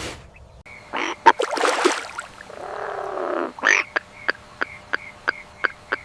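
Animal calls: a few rough, noisy calls, then from about four seconds in a steady series of short, sharp calls, about three a second.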